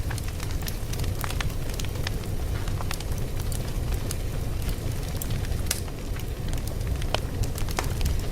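Fire crackling, with irregular sharp pops and snaps, several a second, over a steady low rumble of the flames.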